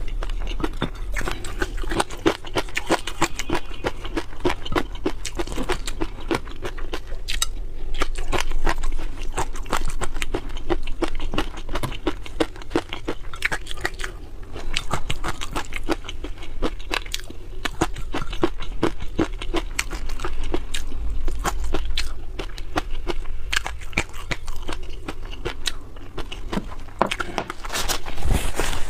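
Close-miked eating of seafood: steady crunching and chewing, a dense run of small irregular clicks and crackles.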